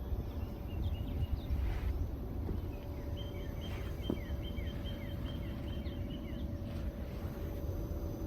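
A bird calling over a steady low rumble and a faint even hum: a few high chirps about half a second in, then a quick run of about ten chirps from about three seconds in to near the seventh second.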